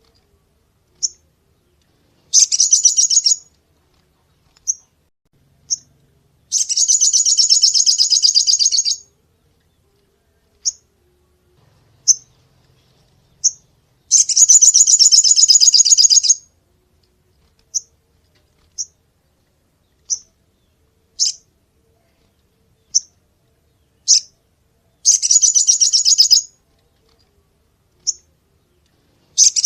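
A sogon songbird calling: sharp, high single chirps about a second apart, broken by fast rattling bursts of repeated notes lasting one to two and a half seconds, heard four times.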